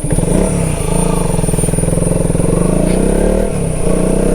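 Motorcycle engine pulling away and accelerating, its pitch climbing, dropping sharply about half a second in and again past three seconds as it changes up through the gears, then climbing again.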